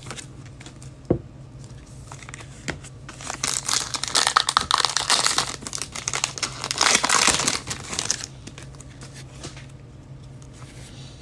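A foil trading-card pack being torn open and its wrapper crinkled, a dense crackling from about three to eight seconds in. A few light clicks and taps come before it, over a low steady hum.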